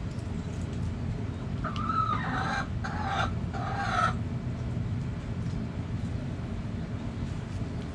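A rooster crows once, a multi-part cock-a-doodle-doo lasting about two and a half seconds, starting a little under two seconds in. A steady low rumble runs underneath.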